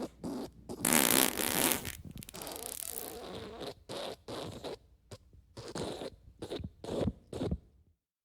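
Fart sounds: a loud, raspy one about a second in, followed by a string of short sputtering ones that stop just before the end.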